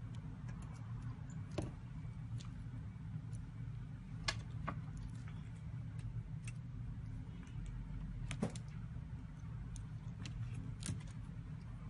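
Scattered light clicks and taps of small repair tools on an iPhone's internal parts, over a steady low hum.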